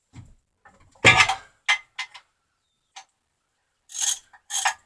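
Sharp metallic clicks and knocks, then a few short scraping bursts near the end, from hand-tool work to break loose the bolts holding the flywheel to the engine.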